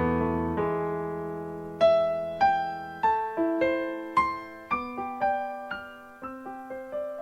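Slow solo piano music: a held low chord, then single notes struck about twice a second, each one dying away.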